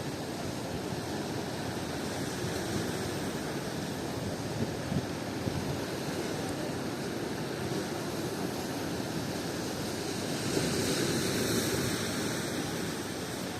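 Ocean surf with strong wind buffeting the microphone: a steady rush of noise that swells briefly near the end.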